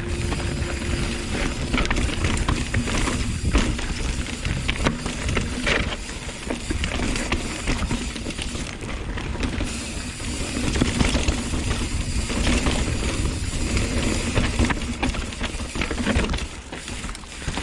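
Hardtail mountain bike clattering down a rocky technical trail: dense, irregular rattling and knocking from the bike over rocks and roots, with a heavy wind rumble on the microphone.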